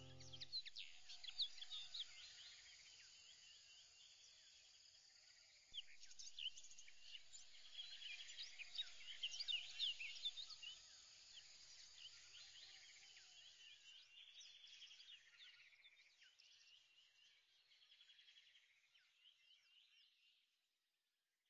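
Faint chorus of birds chirping and trilling, with many short rising and falling calls layered over each other. It fades out just before the end.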